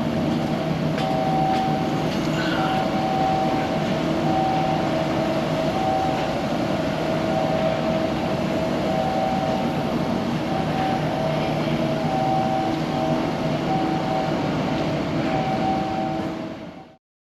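Steady, loud industrial machinery noise with a repeating on-off tone pattern, cutting off abruptly near the end.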